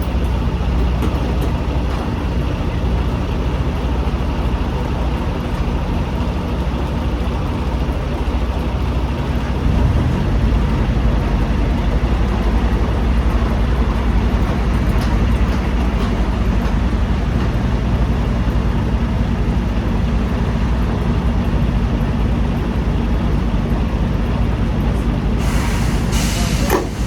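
Heavy diesel engine running steadily, its note shifting about ten seconds in. A short burst of air hiss comes near the end, followed by a few clicks.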